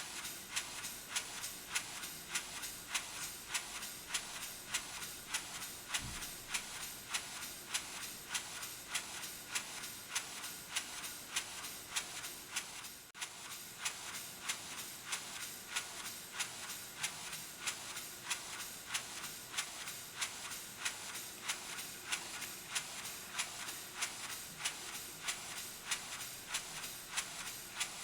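EIWI model table engine running steadily at slow speed, its exhaust puffing evenly about twice a second over a steady hiss.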